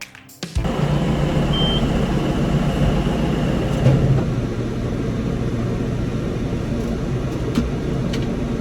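Farm tractor's diesel engine running steadily, starting about half a second in after a brief lull.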